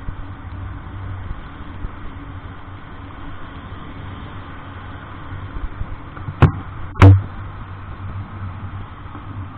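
Vehicle engine running with a steady low hum while driving, broken by two sharp knocks about half a second apart a little past the middle.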